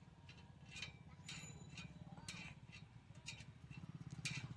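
A low engine rumble that grows steadily louder, with a few scattered sharp clicks over it.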